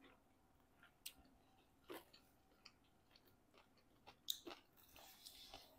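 A person chewing pizza, faint and sparse: scattered wet mouth clicks and smacks, with a short run of soft chewing noise near the end.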